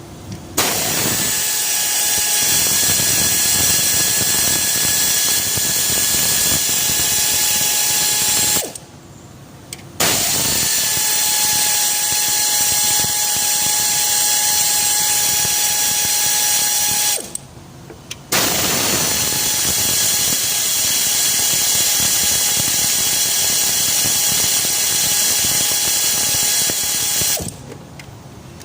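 A power tool run in three long stretches of several seconds each, stopping briefly between them.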